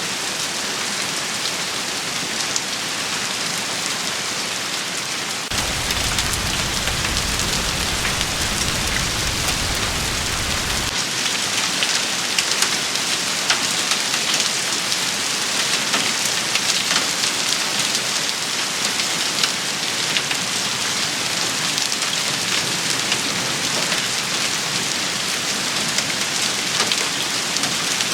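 Rain shower falling steadily on hard surfaces, an even hiss with scattered sharper drop hits. A low rumble comes in abruptly about five seconds in and cuts off about six seconds later.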